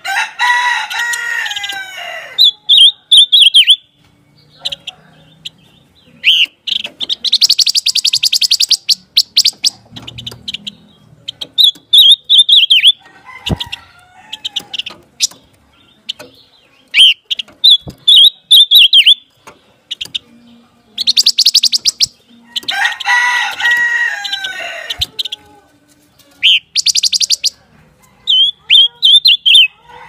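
Silver-eared mesia calling over and over: short bright chirping phrases alternate with fast, dry rattling chatters, every few seconds. A longer, lower call of several pitches that falls away comes near the start and again about three-quarters through.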